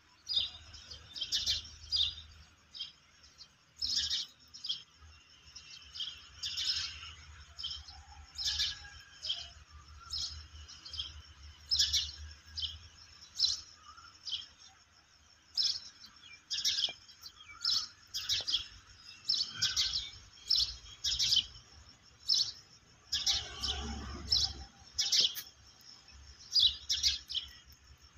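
Small birds chirping: short, sharp high-pitched chirps repeated every half second to a second, with a brief soft rustle a few seconds before the end.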